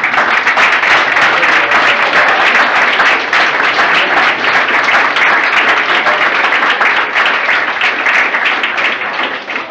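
Audience applause, loud and sustained, starting suddenly and tapering off near the end.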